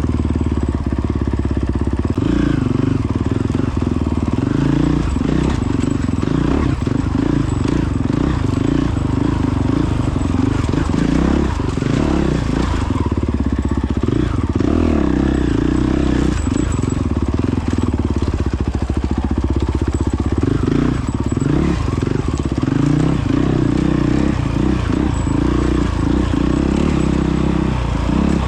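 Honda CRF450X dirt bike's single-cylinder four-stroke engine running under way off-road, its pitch rising and falling with throttle and gear changes.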